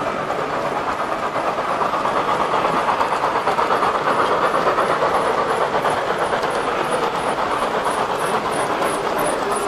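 Model train running along its track, a steady rumbling whir with regular light clicks of the wheels over the rail joints.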